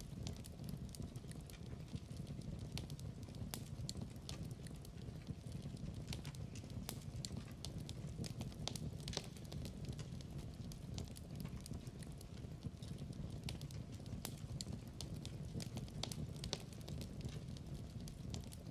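Wood fire crackling in a fireplace: irregular sharp pops and snaps over a low, steady rumble of burning flames.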